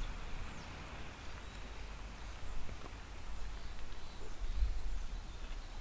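Steady outdoor ambience: a low wind rumble on the microphone under a faint, even hiss, with a few soft ticks.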